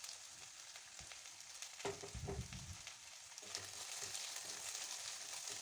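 Onions frying in refined oil in a kadai, a faint steady sizzle that grows a little louder about three and a half seconds in. A couple of soft thuds come around two seconds in.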